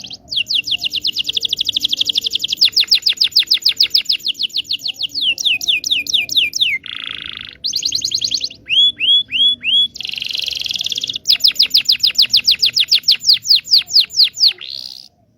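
Domestic canary singing a long, loud song of fast trills and rolls. Near the middle it breaks into a couple of buzzy notes and four quick downward-sweeping whistles, then goes into another long trill that slows toward the end.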